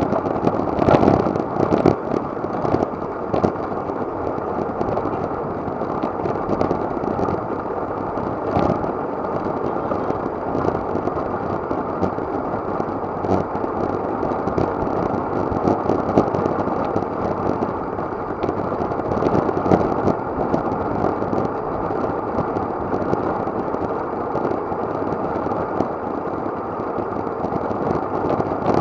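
Steady wind noise on an action camera's microphone while riding a road bike at speed, with scattered clicks and rattles from the bike.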